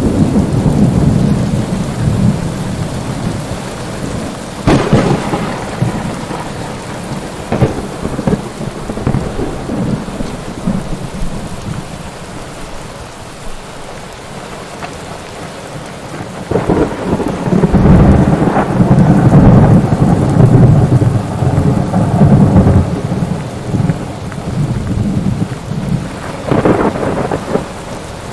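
Thunderstorm: steady heavy rain with repeated thunder, sharp cracks about five seconds in, again near eight seconds and near the end, and a long loud rumble rolling through the middle.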